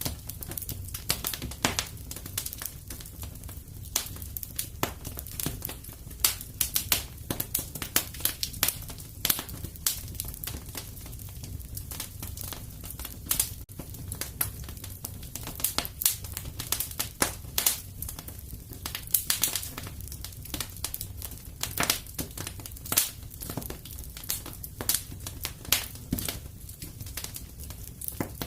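Wood fire crackling in a fireplace: irregular pops and snaps, a few louder than the rest, over a steady low rumble.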